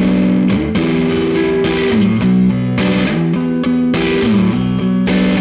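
Blues-rock guitar-and-drums duo starting a song: a distorted electric guitar riff whose notes slide up and down, over regular sharp drum hits.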